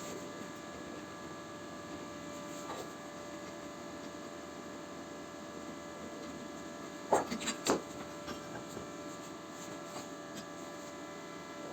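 Steady noise of a heavy storm outside, with a faint steady hum under it. A quick cluster of sharp knocks and clatters comes about seven seconds in.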